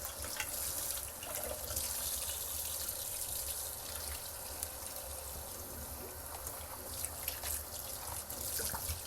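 Tap water running into a kitchen sink as a coffee maker's filter basket is rinsed under it, with a few light knocks of the basket.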